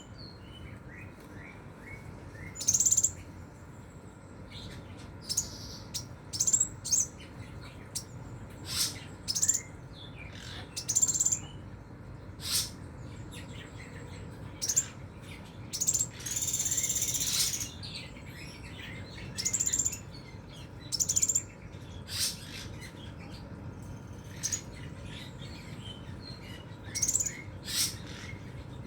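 Crimson sunbird singing: a string of short, sharp, high-pitched song bursts every second or two, with one longer, fuller phrase about halfway through.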